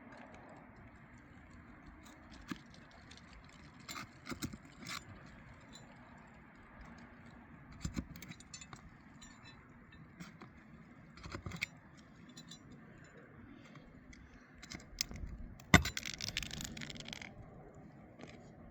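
Metal pry bar working under asphalt roof shingles to pull nails: scattered metallic clinks and scrapes, with one sharp knock near the end followed by a second or so of scraping.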